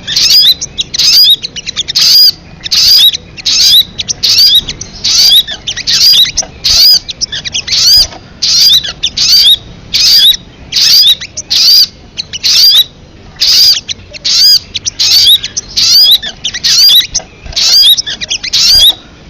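Recorded call of the bird Indonesian keepers call 'sogon', looped: short high chirpy calls of quick rising-and-falling notes, repeated evenly about three times every two seconds.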